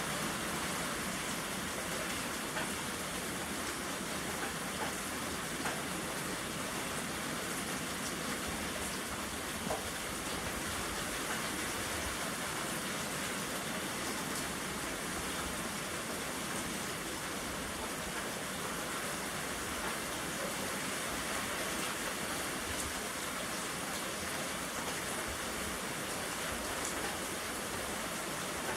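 Steady rain falling, an even hiss with occasional faint sharp ticks of drops striking.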